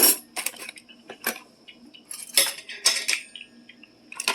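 Metal cutlery clinking in a kitchen drawer's utensil tray as pieces are sorted and set in place: a handful of separate clinks and rattles.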